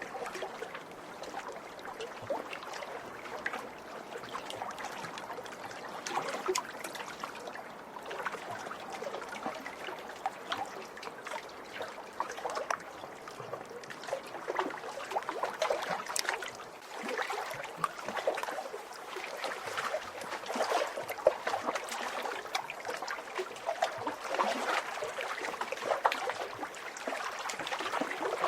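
Small lake waves lapping and splashing against the shore, a continuous irregular patter of little splashes and trickles.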